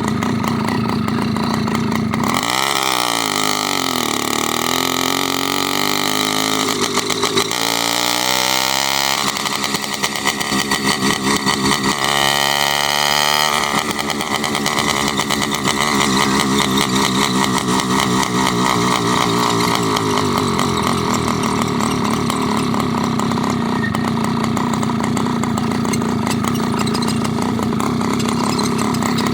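Small motorized-bicycle engine running, its pitch rising and falling a few times in the first half as the throttle changes, then holding steady.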